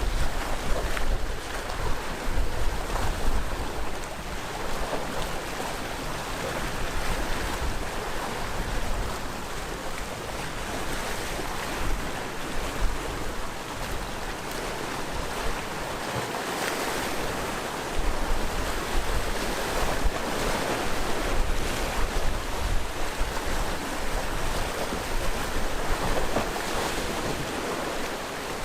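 Sea waves washing continuously onto a rocky coast, swelling and ebbing every few seconds. Wind buffets the microphone with a low rumble, strongest near the start and again in the second half.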